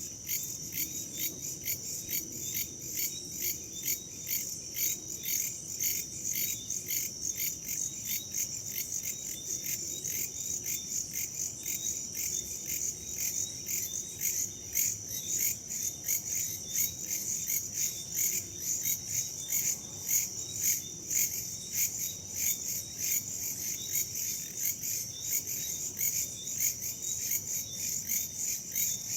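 Night chorus of crickets and other insects, a dense high chirring pulsing rapidly and evenly, over a faint low rumble of wind.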